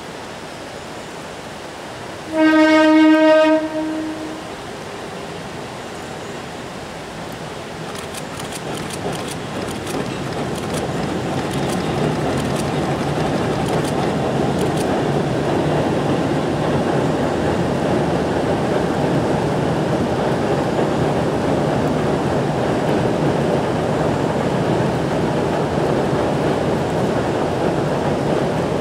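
Kurobe Gorge Railway narrow-gauge trolley train: one horn blast of about a second from its electric locomotive, then the steady rumble of the train running onto a steel arch bridge, growing louder and staying loud, with scattered clicks of wheels over the rails.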